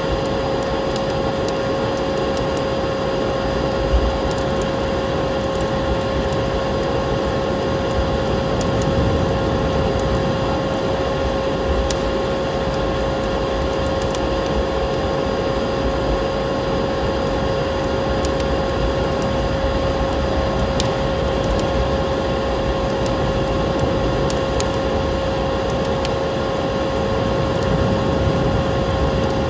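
Vacuum cleaner motor running with a steady high hum, over the crackle of a wood fire with scattered sharp pops and a constant rushing noise beneath.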